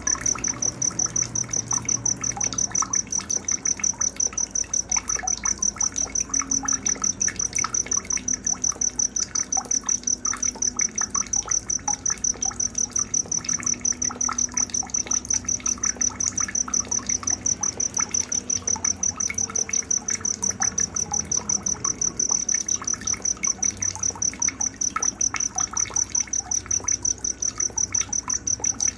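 A cricket chirping steadily in an even, fast rhythm of high pulses, about three to four a second, over faint scattered chirps and a soft trickle of water.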